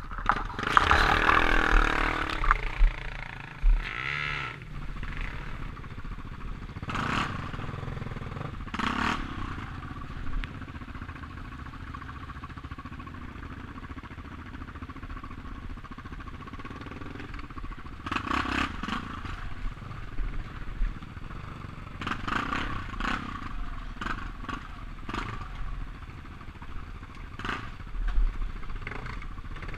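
Motorcycle engine running, its pitch wavering in the first couple of seconds, with irregular knocks and rattles throughout.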